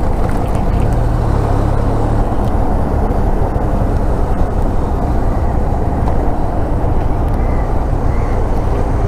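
Motorcycle riding steadily along a highway: a continuous, loud rumble of engine and road noise at cruising speed.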